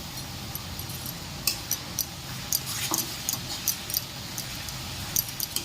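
Onions and ground masala paste frying in mustard oil in a kadai: a steady sizzle with irregular sharp clicks of a spatula scraping and tapping the pan as it is stirred.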